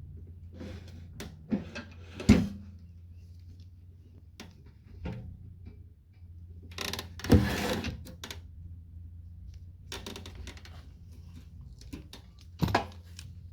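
Sharp knocks and clicks of metal parts and tools being handled while a microwave oven is taken apart: three louder knocks spaced about five seconds apart, the middle one with a second of scraping clatter around it, over a steady low hum.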